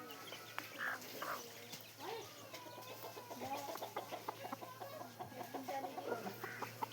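Chickens clucking, a run of short repeated calls that thickens in the second half.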